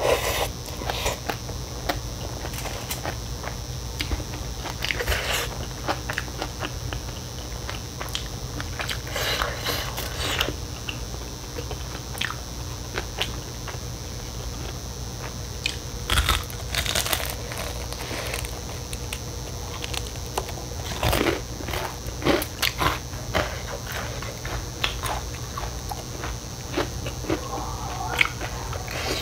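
Close-miked eating: chewing with scattered crisp crunches, some from biting into crunchy fried chicken skin.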